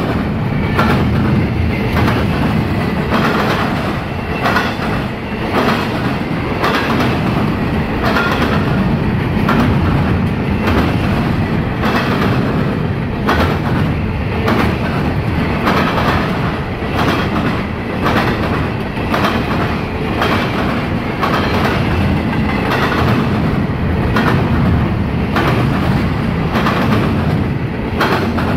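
Double-stack intermodal well cars of a CSX freight train rolling past: a loud, steady rumble of steel wheels on rail, with repeated clacks as the wheels cross rail joints.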